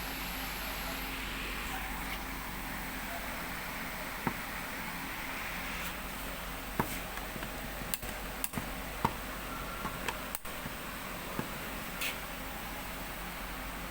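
Mistral ceiling fan running steadily with an even whoosh of air and a faint hum, with scattered light clicks and ticks through the middle.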